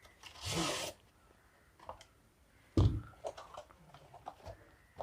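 Tripod packaging being handled and opened: a short scrape about half a second in, a thump near three seconds, then small clicks and knocks.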